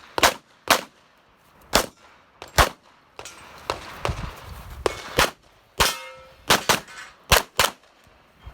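A string of about a dozen pistol shots fired during a practical shooting stage, some in quick pairs, with steel targets clanging when hit; one plate rings on briefly about six seconds in.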